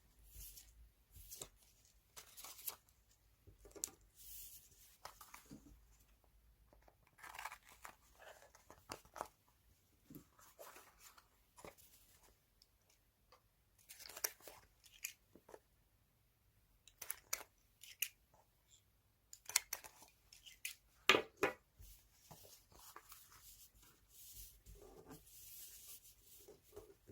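Magazine paper being snipped with scissors and torn by hand, with rustling as clippings are handled. Short, irregular snips and rips come with gaps between them, a cluster of sharper ones about twenty-one seconds in.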